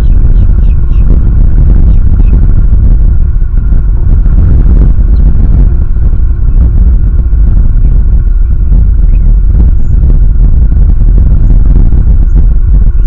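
Strong wind buffeting the nest camera's microphone: a loud, constant rumble.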